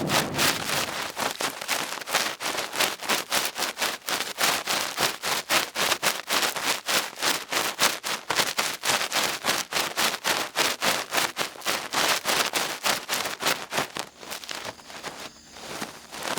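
Cotton swab rubbing and twirling in an ear right at the microphone: quick scratchy strokes, several a second, growing quieter and sparser near the end.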